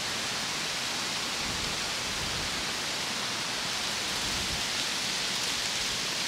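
Rain falling on autumn woodland in a steady, even hiss.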